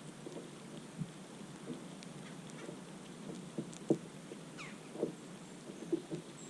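A bird's single whistled note sliding down in pitch about four and a half seconds in, over steady wind-like noise with scattered soft taps and thumps.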